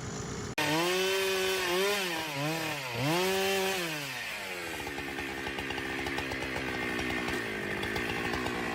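Two-stroke chainsaw engine revved up and down several times in quick swells. About four seconds in it drops to a lower, steady, rougher pitch as it bogs down cutting into wood.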